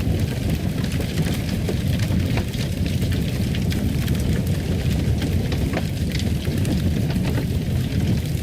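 Fireplace fire burning: a steady low rumble of flames with scattered sharp crackles and pops throughout.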